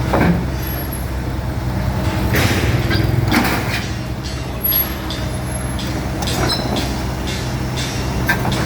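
Diesel engine of a Caterpillar 308 CR mini excavator running steadily under load as it climbs onto a flatbed truck, with a few short hissing and clanking noises over the engine.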